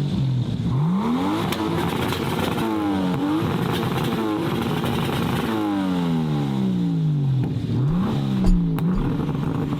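Modified car engine revved up and down several times, its pitch climbing quickly and falling away more slowly, with one long drop in the middle. A brief low thump near the end.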